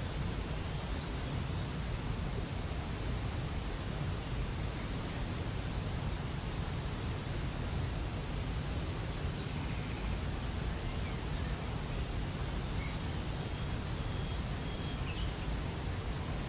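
Steady rush of a waterfall, with a small bird calling in runs of short high chirps, a few a second, several times over.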